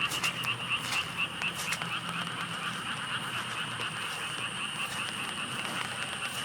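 Frogs calling in a fast pulsing chorus, clearest in the first couple of seconds, over a steady hiss of rain with scattered drips.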